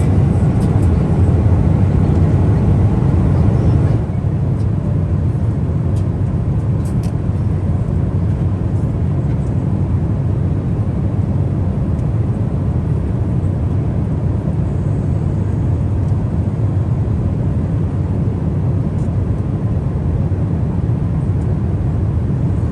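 Steady cabin noise inside a Boeing 777-300ER airliner: the even, low rush of engines and airflow, stepping down slightly about four seconds in and then holding steady.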